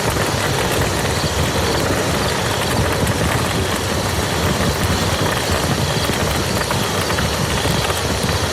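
Steady rain falling on a muddy field: an even hiss of dense drops with a low rumble underneath.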